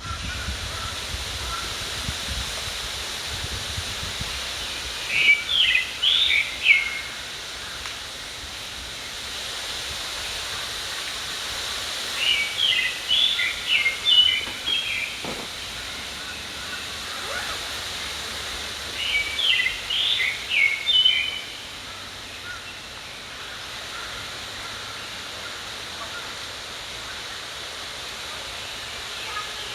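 A songbird singing a short phrase of several quick notes, repeated three times about seven seconds apart, over the steady rush of a mountain stream.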